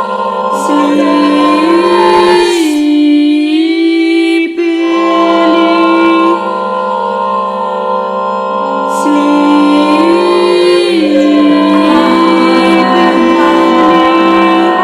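Choir voices singing long held notes in close harmony over a steady low note, the upper part stepping up and back down twice.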